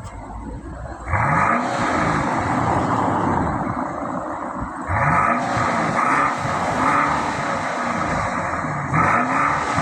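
Mercedes S500 Long engine revved through its exhaust in repeated throttle blips, the pitch rising with each one: about a second in, several around five to seven seconds, and again near the end.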